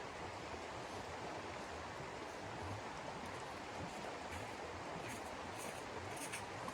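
Steady rushing, hissing noise, with a few brief rustles near the end.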